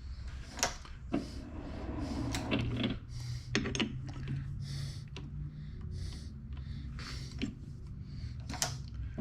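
Irregular metallic clicks and knocks of a workpiece being handled and set in a lathe chuck, over a low steady hum.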